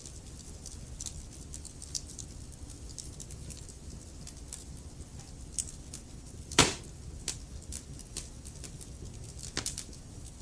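Wood fire burning in a fireplace: logs crackling with a steady scatter of small sharp snaps over a low rumble, and one much louder pop about two thirds of the way through.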